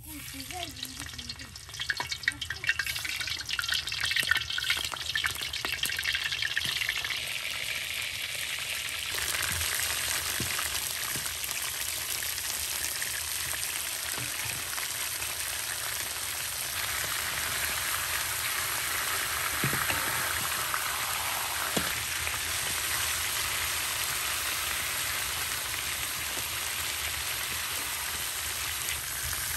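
Food frying in hot oil in a pan: sharp crackling and spattering for the first several seconds, settling into a steady sizzle.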